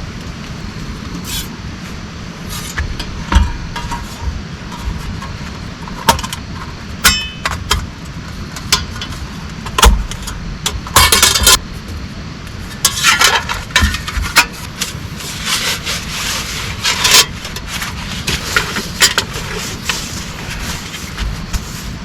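Steady heavy rain, with irregular clicks, knocks and scrapes of gear being handled over it, busiest in the second half.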